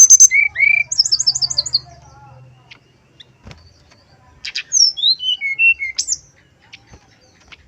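Male brown-chested jungle flycatcher singing: two quick phrases of high, clear whistled notes, the second starting about four and a half seconds in and falling in pitch note by note.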